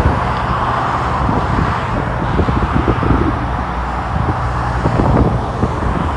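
Wind buffeting the microphone in low, uneven rumbles over a steady wash of road traffic noise.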